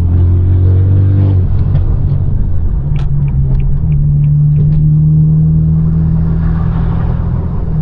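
Straight-piped BMW F32 428i's turbocharged four-cylinder engine droning steadily while driving, its note dropping about a second and a half in. A scattering of short sharp crackles comes around three to five seconds in.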